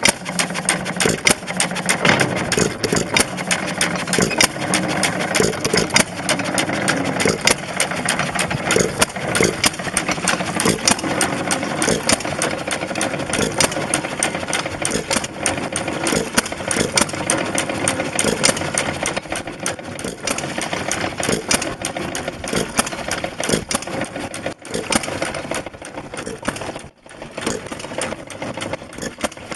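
Baker Monitor single-cylinder hit-and-miss engine running with the pumpjack and water pump engaged, a steady rapid clatter of firing and mechanical knocks.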